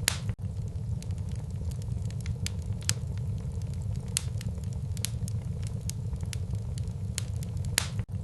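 Wood fire burning in a fireplace, crackling with frequent irregular sharp pops over a steady low rumble of the flames. The sound drops out very briefly twice, shortly after the start and near the end.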